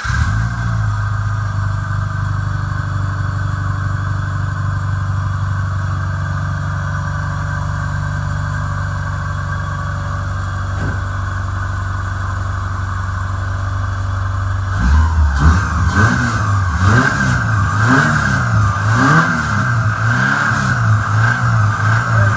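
2001 Subaru Forester's 2.5-litre EJ25 flat-four boxer engine idling steadily, then revved up and down repeatedly from about 15 seconds in. The owner says this engine clacks and knocks and expects a rod to let go.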